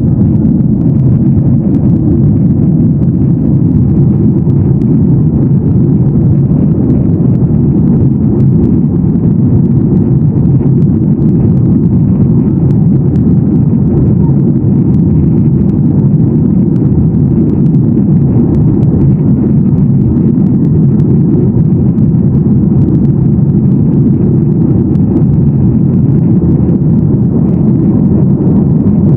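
Steady cabin noise of a Boeing 737-800 in flight, the rush of airflow and its jet engines heard from inside the passenger cabin: a loud, even, low rumble without change.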